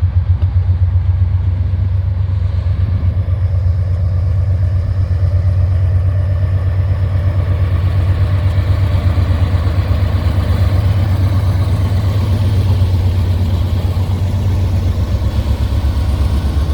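Diesel-electric freight locomotive passing close at low speed, its engine giving a deep, steady drone with a fast pulsing throb.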